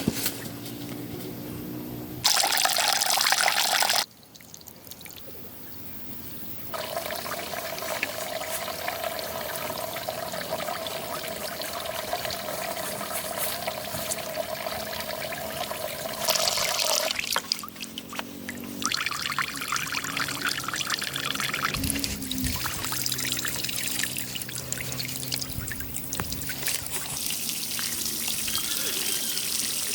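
Water pouring and trickling in several short stretches that start and stop abruptly, with one loud gush about two seconds in.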